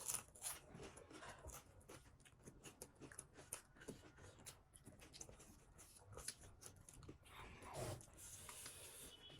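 Faint chewing of crisp pani puri: scattered small crunches and clicks, with a soft breath a little before the end.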